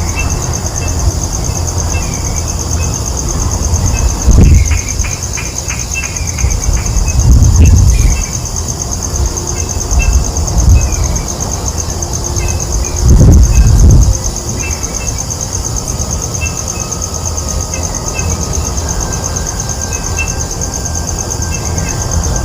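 Outdoor ambience: a steady high-pitched insect drone, with short high chirps scattered through it. Low rumbles rise and fall three times: about four seconds in, around seven to eight seconds, and at about thirteen seconds.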